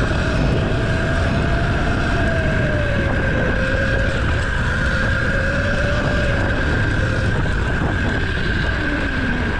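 Mini bike engine running while riding, its pitch drifting gently up and down over a steady higher whine, with heavy wind rumble on the microphone.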